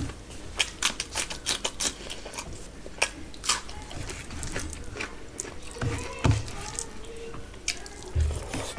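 Close-miked eating sounds: crisp crunching of a raw cucumber slice being chewed, a quick run of cracks over the first few seconds. Then quieter wet sounds as rice is mixed by hand, and soft low thumps as a mouthful of rice is taken near the end.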